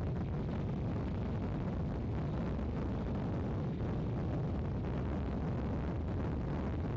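Strong storm wind buffeting the microphone: a steady, deep rumbling roar with no breaks.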